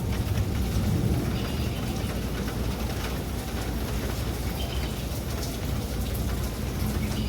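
Steady rain falling, with a continuous low rumble underneath and a few faint short high chirps.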